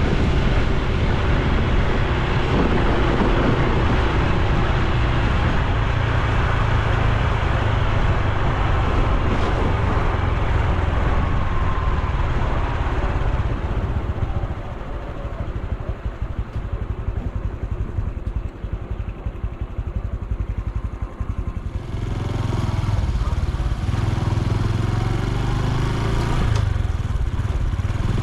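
Honda Super Cub C125's single-cylinder four-stroke engine running on the move, with wind and road noise. About halfway through it eases off and goes quieter for several seconds, then picks up again.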